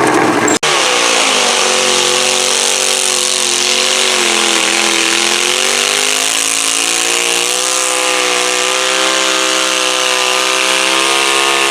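Pulling garden tractor engine running hard under load, its pitch sagging about four seconds in and then slowly climbing again. A sudden short break about half a second in.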